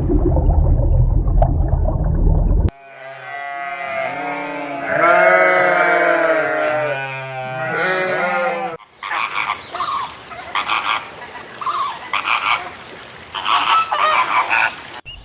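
A run of different animal sounds: a loud low rumble for the first few seconds, then long pitched calls that bend up and down, then short bursts of calls separated by brief gaps.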